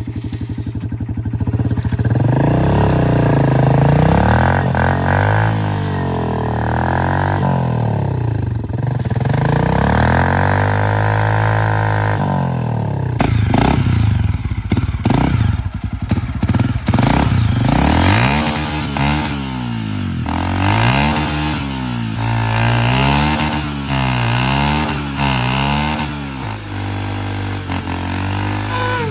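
Dirt bike engine revving up and down as it is ridden, its pitch rising and falling again and again, about once a second in the second half.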